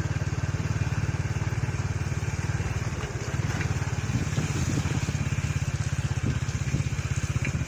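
Motorcycle engine running steadily while being ridden, an even, rapid low throb.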